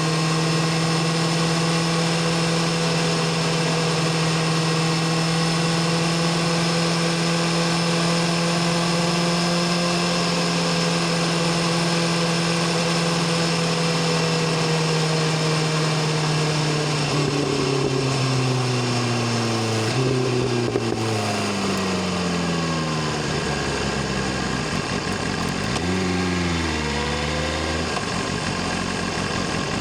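BMW S1000RR inline-four sportbike engine and exhaust running at a steady pitch under cruise, then the engine note falls in several downward glides as the bike slows, with a short rise about 26 s in before settling to a low, steady note near the end.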